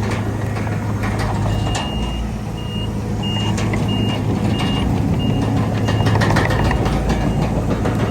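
Reversing alarm on a heavy earthmoving vehicle beeping, about one and a half beeps a second, starting about a second and a half in and fading toward the end. Underneath, a heavy diesel engine drones steadily, with scattered knocks and clanks of machinery.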